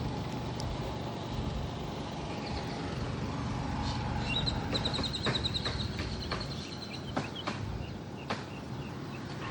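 Steady low outdoor rumble, with a bird's rapid trill of quick repeated high notes about halfway through and a scatter of light clicks after it.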